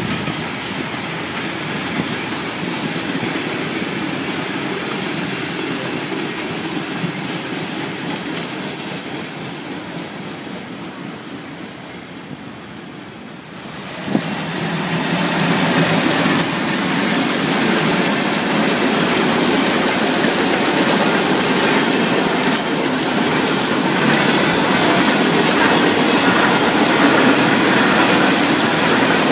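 Freight train rolling past, its wheels clacking over the rail joints, slowly fading. About halfway through, the hiss of heavy rain comes in suddenly and stays loud, with another freight train rolling under it.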